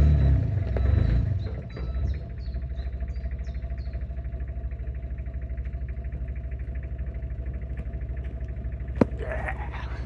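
Site dumper's engine running loudly for the first second or so, then settling to a steady, even idle. A single sharp click about nine seconds in.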